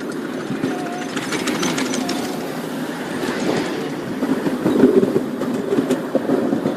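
Miniature railway train running along its track with a steady rumble, the wheels clicking over the rail joints in quick runs, most thickly between about one and two and a half seconds in.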